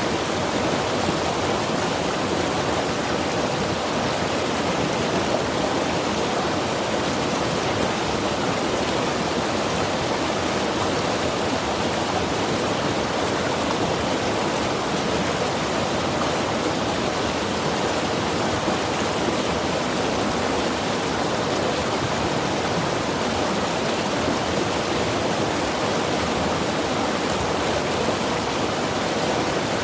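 Mountain river rushing steadily: an even, constant roar of fast-flowing water with no breaks.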